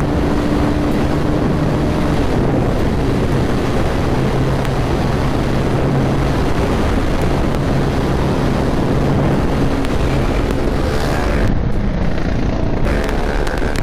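Bajaj Pulsar motorcycle engine running steadily at road speed, heard from the rider's position, with heavy wind buffeting on the microphone.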